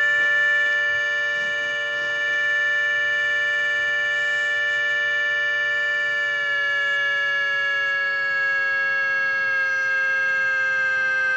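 ACA Hurricane 130 warning siren sounding a steady held tone, several pitches at once. About halfway through, the pitch starts to fall slowly.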